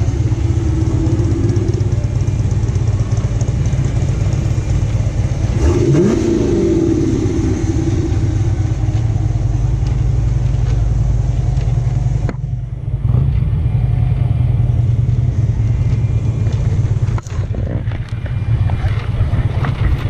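Car engine running with a steady low rumble, its pitch rising in a short rev about six seconds in; the sound changes abruptly twice later on.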